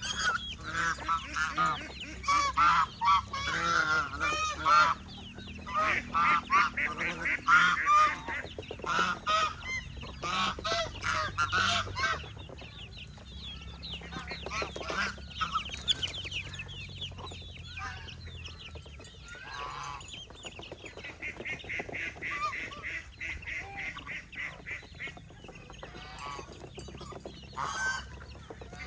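A flock of domestic geese honking, with many calls overlapping. The calling is loud and dense for about the first twelve seconds, then quieter.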